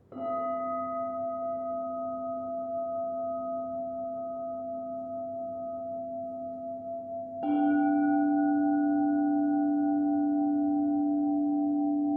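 Crystal singing bowls: one bowl is struck right at the start and rings on with a slow wavering pulse, then a second, slightly higher and louder bowl is struck about seven seconds in, the two ringing together.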